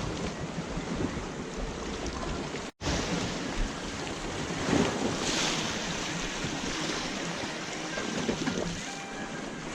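Sea waves washing against the shore with wind buffeting the microphone, a louder wash about five seconds in. The sound drops out completely for an instant just under three seconds in.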